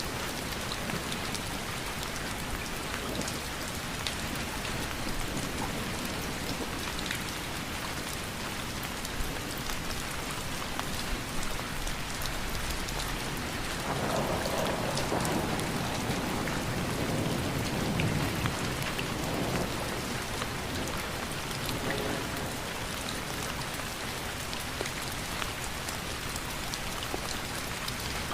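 Steady rain falling, an even hiss dotted with many small drop ticks. About halfway through, a louder, deeper swell builds and fades over several seconds.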